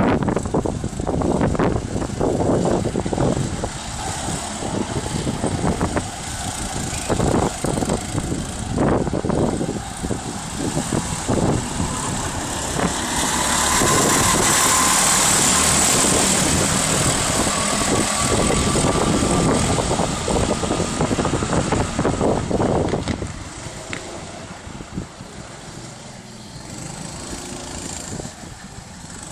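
Go-kart engines running as karts race around a track, getting louder as one passes close about halfway through, then quieter near the end.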